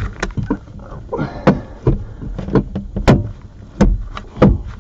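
A string of irregular knocks and clunks from metal engine parts being handled and fitted while the exhaust is worked back into place on a Mercury SportJet jet-boat engine. The sharpest knock comes about three seconds in.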